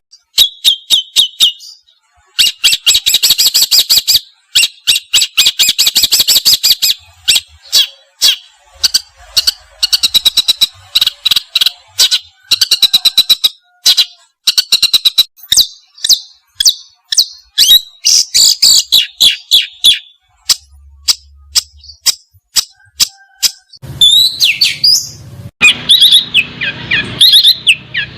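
Songbird song: long runs of rapid, harsh chips and trills, with sliding whistled notes near the end.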